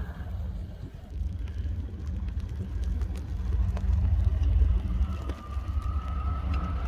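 Snow-plow truck engine running with a steady low rumble. A faint steady whine joins about five seconds in.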